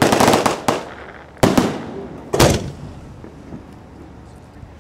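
Aerial display fireworks going off at close range: a quick cluster of sharp bangs at the start, then two single bangs about a second apart, then a quieter stretch.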